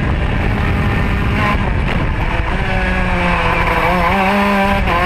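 Racing kart's Modena two-stroke engine heard onboard. Its revs ease off and waver through the middle, then climb again near the end as it accelerates, over a steady rushing noise.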